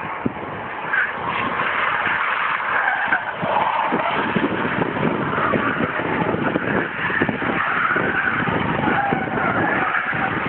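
Car driving on a wet road in the rain: a steady rush of tyre and water noise with frequent small knocks.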